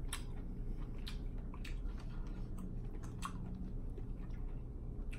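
Close-miked chewing of a baby portobello mushroom, mouth closed, with a string of soft wet mouth clicks.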